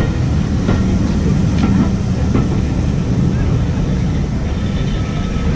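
Passenger coaches rolling past close by: a steady low rumble of wheels on the rails, with a few sharp clicks as the wheels pass over rail joints.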